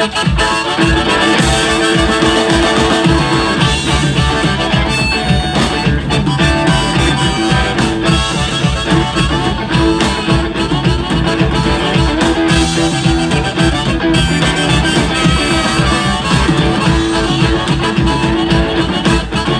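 Blues band's instrumental break with a harmonica taking the lead, playing long held notes over guitar and a driving drum beat.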